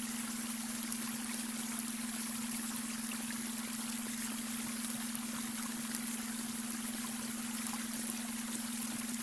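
Babbling brook water running and trickling steadily, layered with a steady low electronic hum from a beta-wave brainwave tone.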